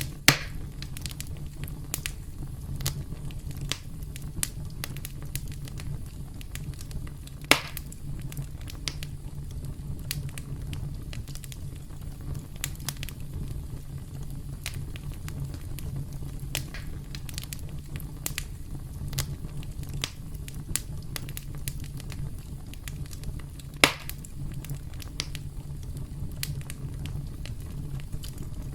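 Campfire crackling over a steady low rumble of burning, with frequent small snaps and three louder pops: one at the start, one at about seven and a half seconds, and one near twenty-four seconds.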